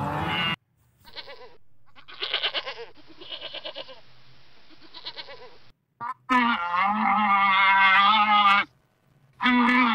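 Goat bleating: soft, pulsing calls in the first half. After a short silence about six seconds in, louder, long bleats with a wavering pitch, and another run of them near the end.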